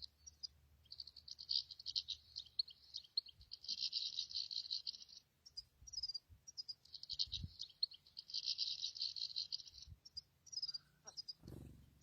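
European goldfinch singing: bursts of fast, high twittering trills a second or more long, broken by short separate call notes. A brief rustle near the end.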